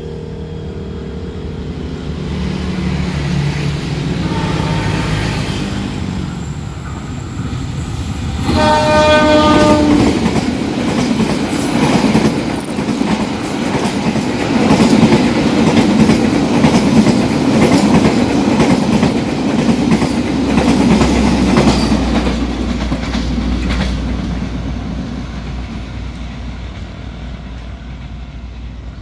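Diesel-hauled express passenger train approaching and passing at speed. The locomotive's horn sounds once, about a second and a half long, a third of the way in. The coaches then rush past with wheels clattering on the rails, and the sound fades as the train draws away.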